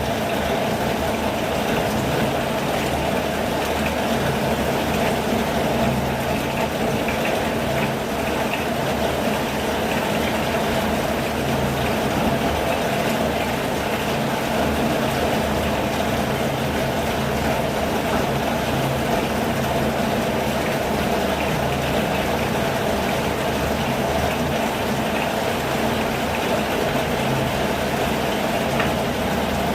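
Steady rain falling: an even, continuous hiss with a low steady rumble underneath.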